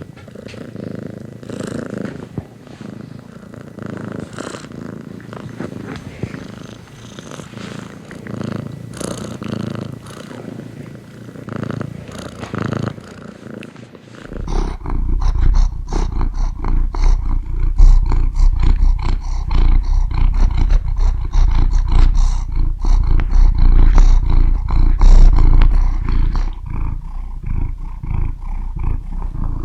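Domestic cat purring, a continuous pulsing rumble. About halfway through the purr becomes much louder and deeper, as if much closer to the microphone.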